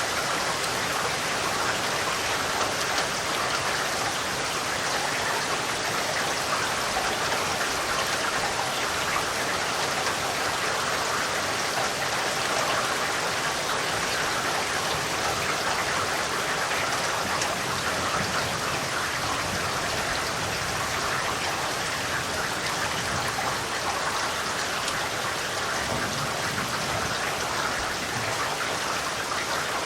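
Steady rain falling, an even, unbroken hiss of drops that does not change in strength.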